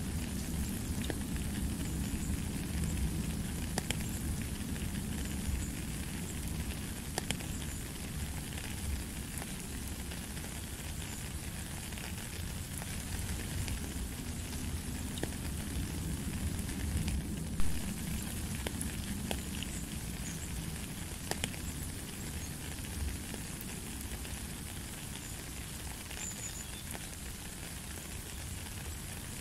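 Steady rain falling on a wet gravel path and into a puddle, a continuous hiss with many small scattered drop taps. One noticeably louder drop lands just past halfway.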